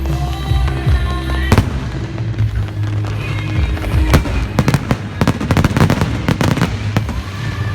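Fireworks going off close by: single sharp bangs, then a rapid run of crackling pops about four seconds in that lasts a couple of seconds, over music with a steady beat.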